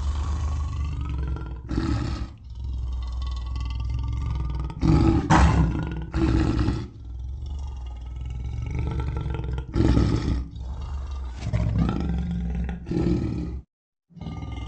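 Lion roaring: about six loud roars over a steady low rumble, the strongest about five and ten seconds in. The recording cuts off suddenly near the end, and another roar clip begins after a brief silence.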